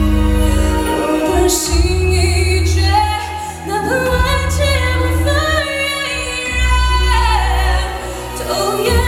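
A woman singing a pop ballad live with a band, holding long notes with vibrato over a steady bass; her voice slides up into a higher sustained line a few seconds in.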